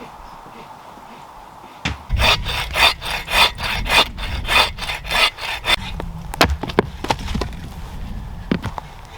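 A hand saw cutting firewood in quick back-and-forth strokes, about three a second, starting about two seconds in. Near the end the strokes give way to a few scattered knocks and cracks.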